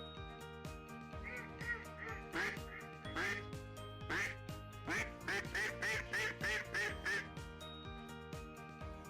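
Ducklings and ducks calling, quacks and quick high peeps, with a fast run of about five calls a second in the second half, over steady background music.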